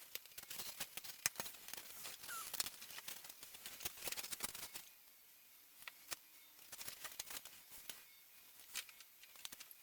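Scattered light clicks and taps of small model-airplane parts being handled and fitted on a workbench, busier in the first half.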